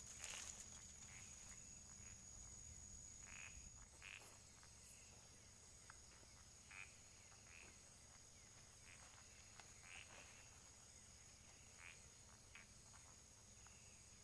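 Faint night ambience: frogs calling in short, scattered croaks over a steady, high-pitched insect drone.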